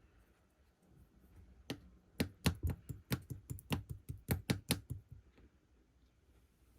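Clear slime with mixed-in parts being pressed and poked, giving a quick run of sharp popping clicks, about four or five a second, from a couple of seconds in until about five seconds in.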